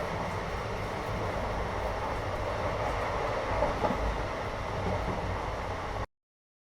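Steady rumble of a moving Indian passenger train heard from inside the carriage, with faint rattles and clicks. It cuts off abruptly about six seconds in.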